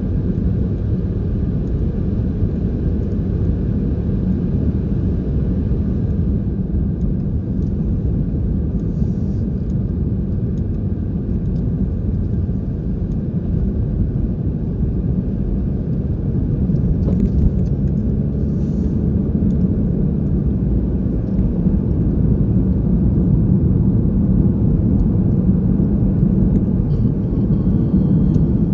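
Steady low rumble of motor vehicle and road noise, growing slightly louder in the second half.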